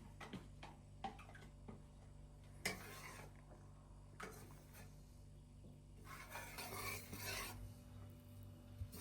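Faint kitchen handling sounds: light clinks of utensils against dishes, short swishes, and a longer scraping, stirring sound about six seconds in.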